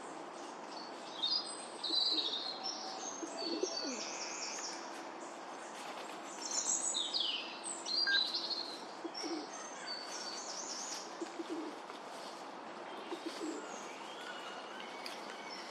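Parrots chirping and calling in short, scattered high chirps, several in quick runs, with no steady rhythm.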